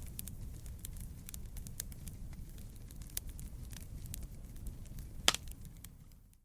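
Wood campfire burning: a steady low rumble of flames under frequent small crackles and snaps, with one louder pop about five seconds in. The sound fades away near the end.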